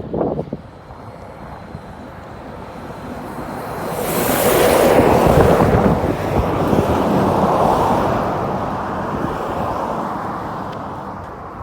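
A road vehicle drives past close by. Its tyre and engine noise swells up about a third of the way in, peaks, then fades slowly away, with wind buffeting the microphone.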